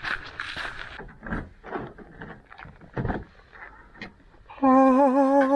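Scattered quiet scuffs and knocks, then, about four and a half seconds in, a man's voice breaks into a loud, long held note with a wavering pitch.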